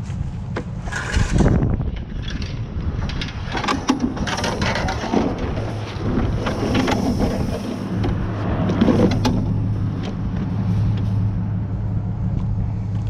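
A steady low engine hum, growing stronger about two-thirds of the way through, with scattered knocks and clatters over it.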